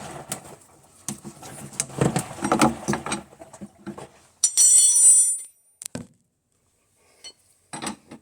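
Hard objects being handled: irregular knocks, clatter and scraping, with one high-pitched squeak lasting about a second near the middle, then a few single knocks.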